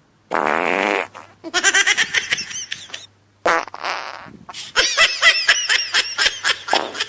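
Two short fart sounds, each followed by a burst of laughter.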